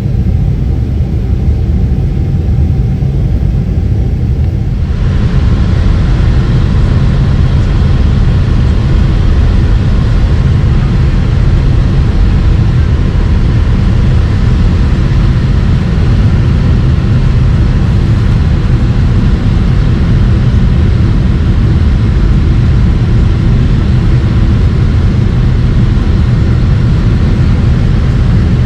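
Loud, steady low rumble of a Boeing 767-300 with General Electric CF6 engines, heard as jet noise. About five seconds in, a broader hiss joins suddenly and the sound grows fuller.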